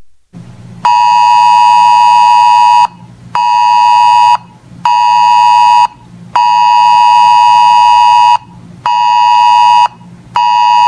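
Weather radio alert buzzer sounding a harsh, high beep in a pattern of one long tone and two short ones, played twice. It signals an incoming weather alert, here a Wind Advisory.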